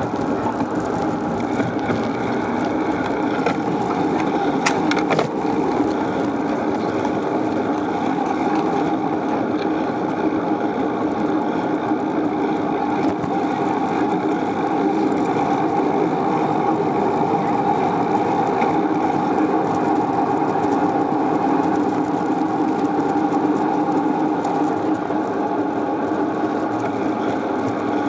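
Steady rolling noise of a bicycle being ridden on pavement, its tyres running on the road, with a few sharp clicks about four to five seconds in.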